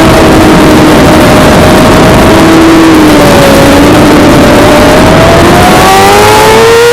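Suzuki GSX-R600's inline-four engine running at high revs over a loud, steady rushing noise. Its pitch sags gently through the first half, dips briefly, then climbs steadily over the last second and a half as it accelerates hard.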